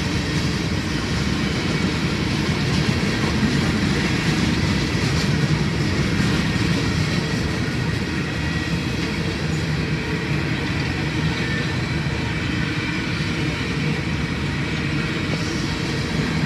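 Open-top coal hopper cars of a long freight train rolling slowly past, a steady rumble of steel wheels on the rails.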